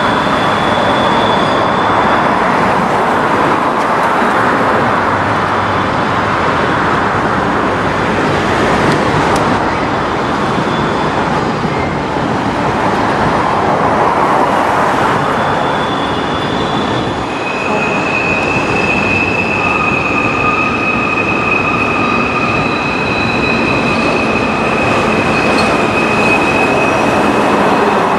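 Freight train cars rolling past with a steady, loud rumble of wheels on rail. Thin high-pitched wheel squeals come and go, and one long squeal starts about two-thirds of the way through and holds on.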